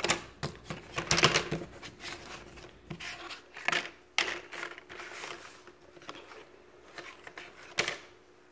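Jigsaw puzzle pieces being handled, shuffled and set down on a surface: irregular light clicks and rustles, busiest about a second in, around four seconds in and again near the end.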